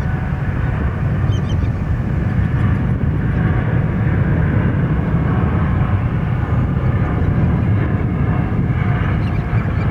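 Jet airliner engines running with a steady, loud low rumble.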